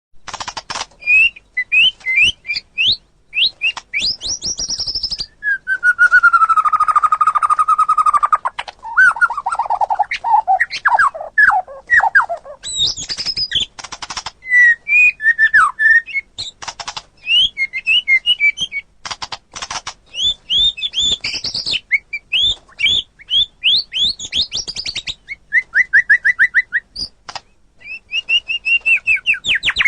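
White-rumped shama singing a long, varied song of rapid whistled notes, fast trills and sharp clicks, with a held whistle about five seconds in.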